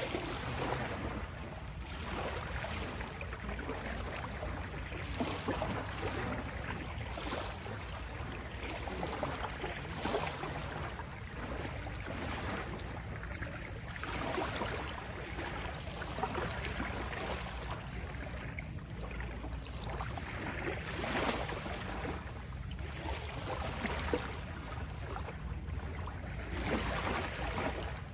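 Small sea waves lapping at the shore: a continuous wash that swells and falls back every two to three seconds, over a steady low rumble.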